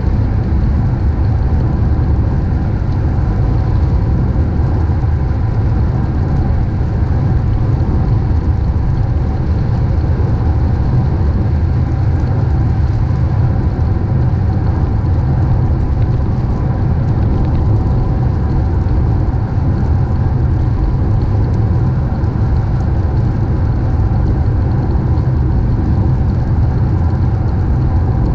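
A car driving at a steady speed: an unchanging low rumble of engine and road noise.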